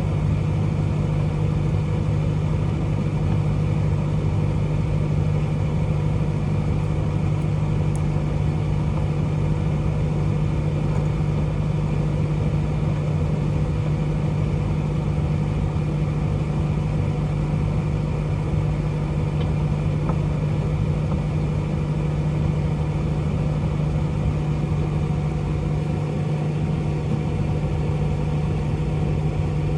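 Microwave oven running with a steady low hum and fan noise.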